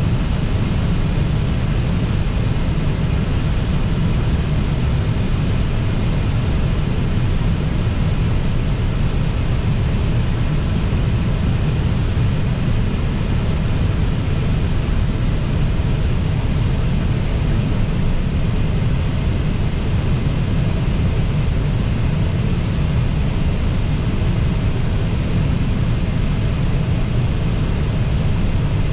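Steady cockpit noise of an Airbus A320 on final approach: an even rush of airflow and engine noise, heaviest in the low end, with no change in level.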